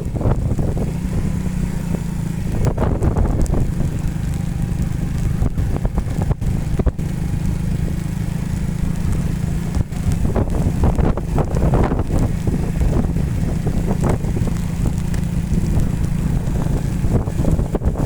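Motorcycle engine running during an off-road ride, a steady low rumble nearly buried under heavy wind buffeting on the microphone.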